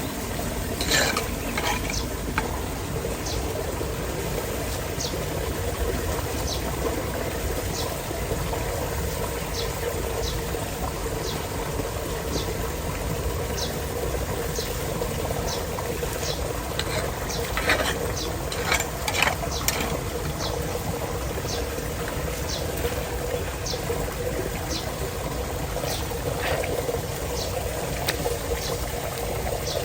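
Floodwater pouring and gurgling steadily down a cleared street storm drain, with a few louder splashes and faint regular ticks about once a second.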